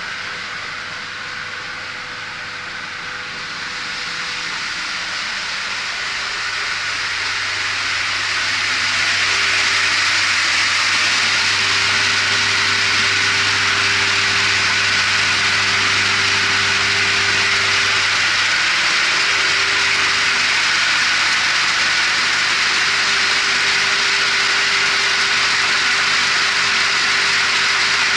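The MV Tuhoe's engine running underway, a steady hum under an even rushing of water and air that grows louder over the first nine seconds and then holds.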